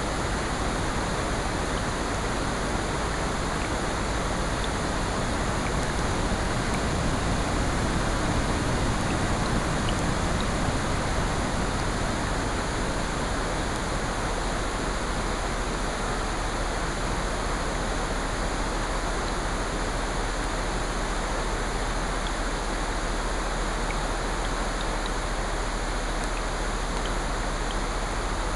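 Mixed nature-sound track of steady rain and ocean surf, with a gentle swell partway through and a few faint scattered crackles from a fireplace.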